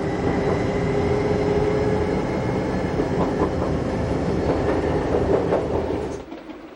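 Electric train of the Bodensee-Toggenburg Railway running along the line, with a steady rumble and wheels clattering over rail joints. The sound drops sharply shortly before the end.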